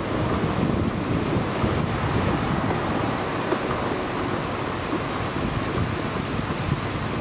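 Steady rain during a thunderstorm, with a low rumble underneath, picked up by a camera's built-in microphone.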